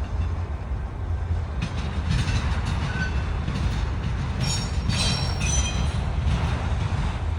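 CSX freight train cars rolling slowly past with a steady low rumble and wheel clicks. Brief high-pitched wheel squeals come about four and a half to six seconds in.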